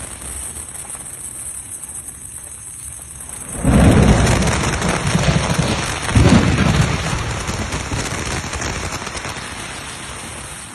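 Thunderstorm: steady rain hiss, then a sudden loud thunderclap about a third of the way in. The thunder rolls on with a second peak a couple of seconds later and slowly dies away.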